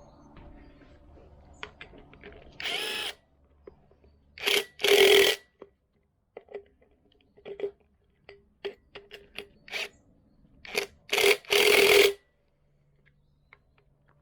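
A handheld power tool run in short bursts, about six pulses of under a second each, the longest ones around five and twelve seconds in, with scattered clicks and knocks of handling between them.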